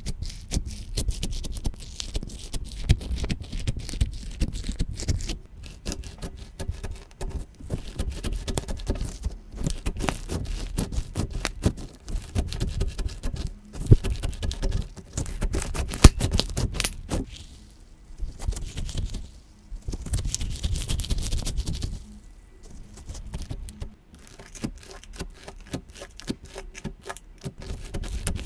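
Slime being squeezed and poked by hand: a dense run of wet crackling and popping clicks, with two sharper pops about midway.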